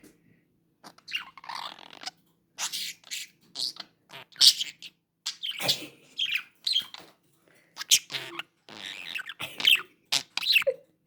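Budgerigar chirping and chattering in many short, irregular bursts.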